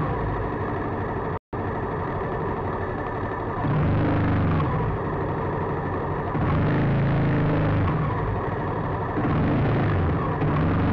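Motorcycle engine running in slow traffic, its note rising and falling with the throttle and getting louder from about four seconds in. The audio cuts out completely for a moment about a second and a half in.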